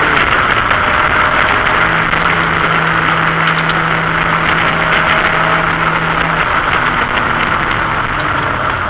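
BMW E28 528e's 2.7-litre straight-six eta engine running under way at racing speed, heard inside the stripped cabin with heavy wind and road noise. Its note holds steady for several seconds, then drops in pitch about six seconds in.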